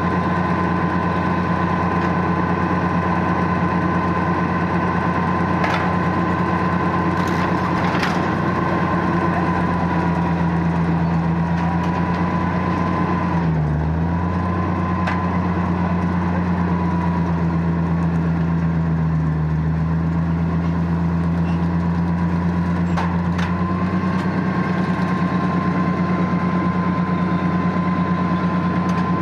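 Tractor engine running steadily while baling hay. Its pitch dips briefly about halfway through as it takes load, and a few sharp clicks sound over it.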